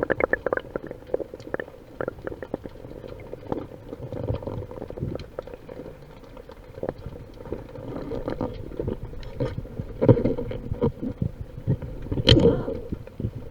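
Muffled underwater rumble of a storm surge, heard through a camera housing, with many scattered clicks and crackles. It swells louder about ten and again about twelve seconds in.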